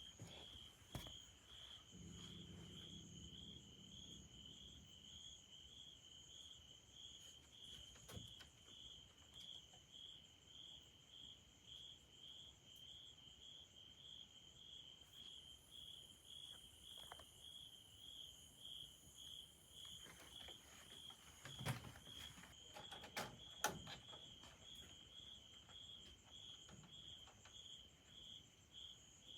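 Insect chirping: a high, even chirp pulsing about twice a second without a break. A few faint knocks come about two-thirds of the way through.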